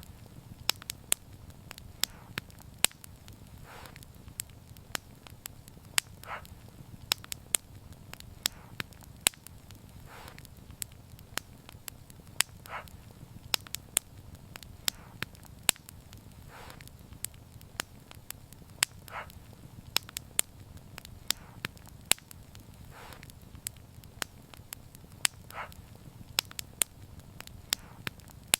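Wood fire burning with irregular sharp crackles and pops over a steady low rumble of flame, and a soft hiss about every two seconds.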